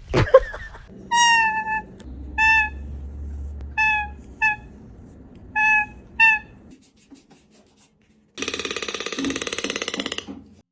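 Toucan calling: six short squeaky calls, each held on one pitch, followed about eight seconds in by a two-second rapid buzzing rattle.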